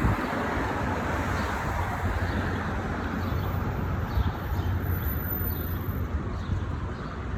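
Steady city traffic noise with a low rumble of wind on the microphone, and faint high chirps scattered through it.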